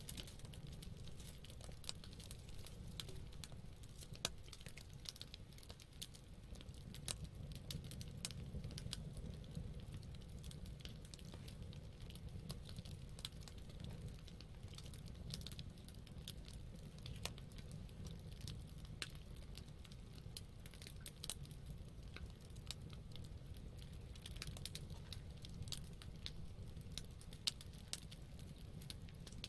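Wood campfire burning, with frequent small crackles and pops over a low steady rumble.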